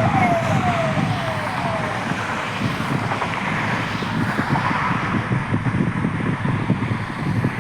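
Steady outdoor rumble of wind and distant traffic. For about the first two seconds it carries a rapid series of short, falling chirps.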